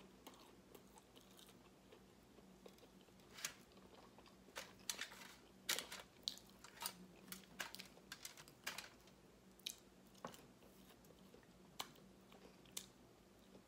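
Faint close-miked eating sounds: chewing with irregular wet mouth clicks and lip smacks, mostly in the middle stretch, over a low steady hum.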